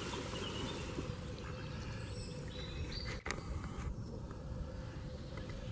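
Wild birds giving short, scattered chirping calls over a steady low outdoor rumble, with a brief dropout about three seconds in.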